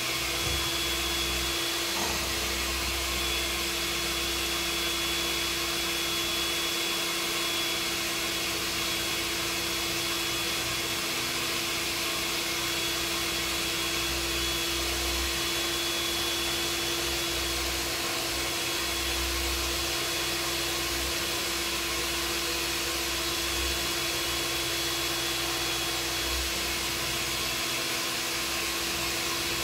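Steady whir of an electric motor or fan with an even hiss and a constant hum, unchanging throughout.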